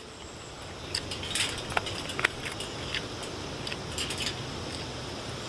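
Wind buffeting the microphone in a low rumble that builds, with scattered light clicks and taps from eating with utensils at the table and a steady high buzz of crickets.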